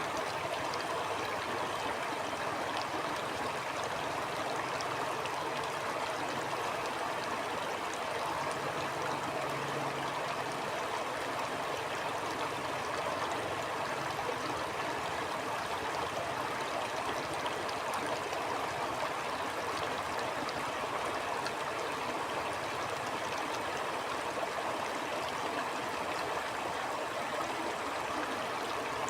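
A shallow stream flowing steadily over stones, an even rush of water with fine gurgling and trickling.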